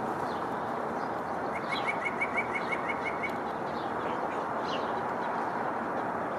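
Wild songbirds calling at a feeder: one bird gives a quick run of about ten short, evenly spaced notes lasting nearly two seconds, with scattered brief higher chirps from other birds, over a steady outdoor hiss.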